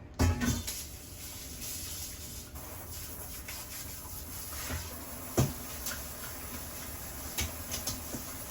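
Kitchen tap running with a steady rushing hiss. A loud knock comes just as it starts and another sharp knock about five seconds in, with a few lighter clatters of things being handled near the end.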